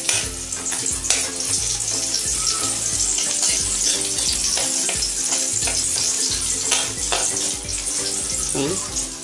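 Chopped garlic and onion frying in hot oil in a steel wok, a steady sizzle, with a metal spatula scraping the wok now and then as they are stirred. Background music with a steady beat runs underneath.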